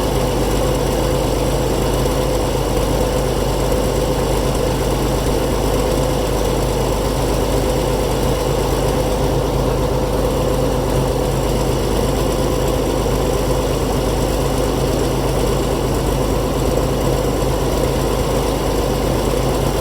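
Fiat-Allis 11-B crawler dozer's engine running steadily at idle.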